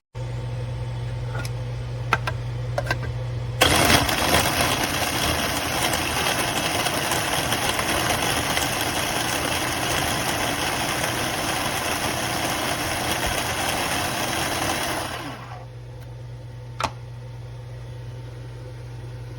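Black+Decker HC300BC 3-cup food chopper's electric motor running under the press button with a steady hum. About four seconds in it turns into a much louder, rough whirring as the blades work the contents. Near the end it drops back to the plain hum.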